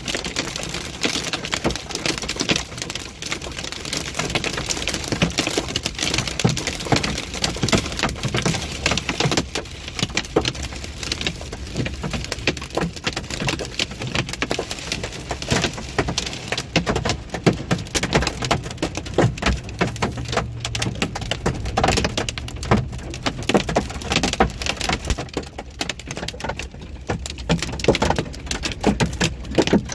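Large hailstones, about 1.5 inches across, pelting down with rain: a dense, unbroken clatter of hard impacts over the hiss of the rain.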